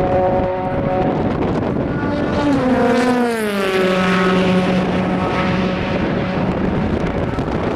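Endurance race car passing at speed. Its engine note falls in pitch as it goes by about three seconds in, over a steady engine drone from the track.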